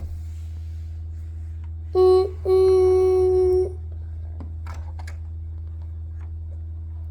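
Two steady horn-like beeps, a short one and then a longer one lasting about a second, about two seconds in, over a constant low hum.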